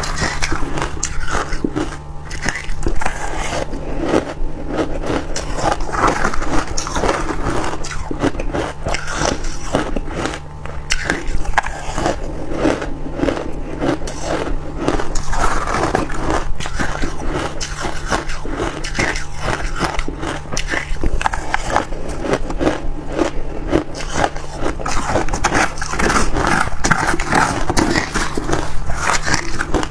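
Freezer frost being bitten and chewed: loud, close crunching made of many crisp, irregular cracks, over a steady low hum.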